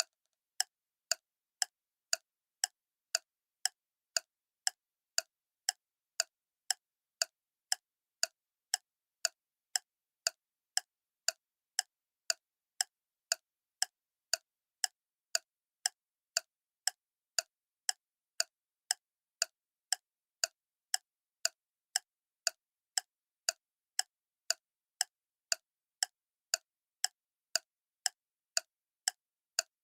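Clock ticking steadily, about two sharp, even ticks a second.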